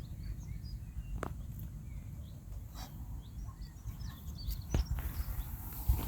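Faint outdoor ambience: small birds chirping here and there over a steady low rumble, with a few soft clicks.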